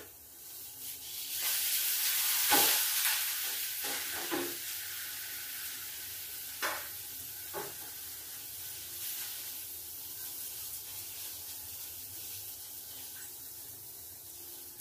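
Chilla batter sizzling in a hot frying pan as it is spread with a spoon: the sizzle swells about a second and a half in, then fades slowly, with a few sharp clinks of the spoon against the pan.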